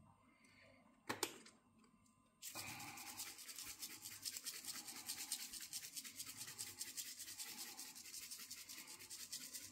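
A single click about a second in, then a faint, fast and even scratchy rasping from about two and a half seconds in: a hand spice grinder being turned over the chicken.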